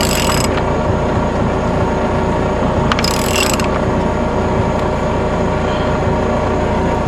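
DEWALT D25263K SDS rotary hammer drill running steadily as it bores into a concrete slab, a continuous dense mechanical sound with a few brief sharp clicks.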